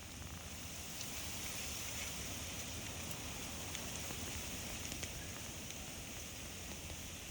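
Steady outdoor forest ambience: an even, hiss-like wash of sound, strongest in the upper range, with a few faint ticks.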